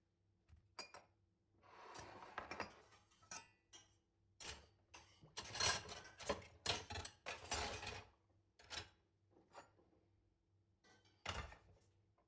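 Dishes and cutlery being handled in a kitchen sink: irregular clinks, knocks and short scraping clatters, busiest between about five and eight seconds in.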